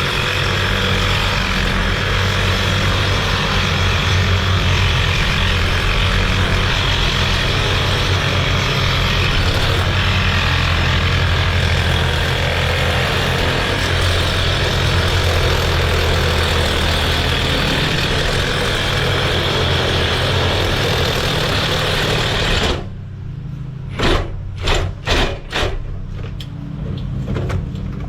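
Reciprocating saw (Sawzall) cutting through a steel pin on a post hole digger mount, running steadily for about 23 seconds and then stopping. A steady low engine hum runs underneath, and a few short sharp sounds come after the saw stops.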